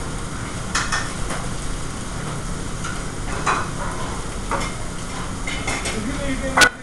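Restaurant kitchen line at work: a steady sizzle of food frying on the range over a low hood-fan drone, with scattered clinks and knocks of pans and utensils. Near the end a sharp, ringing metal clang, the loudest sound.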